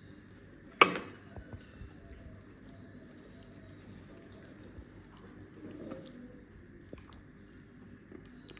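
Eating sounds at a table: one sharp click about a second in, then faint scattered small clicks.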